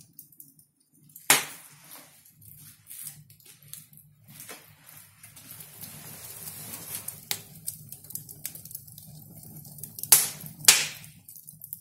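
Wood fire crackling and popping in a fireplace: a sharp crack about a second in and two loud cracks near the end, with smaller ticks between, over a steady low hum.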